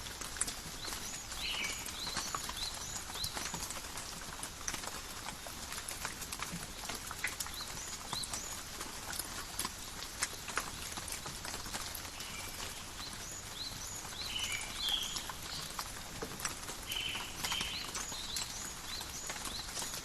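Steady light rain pattering in a forest, with many separate drops tapping on leaves and other surfaces.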